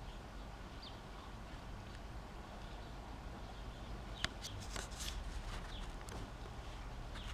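Faint bird chirps over a steady low background, with a few sharp clicks about four to six seconds in.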